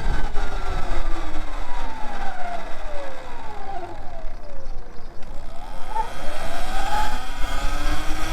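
Segway X160 electric dirt bike's motor whining, its pitch gliding down over the first four seconds as the bike slows, then rising again from about five seconds in as it speeds back up. A low wind rumble runs under it.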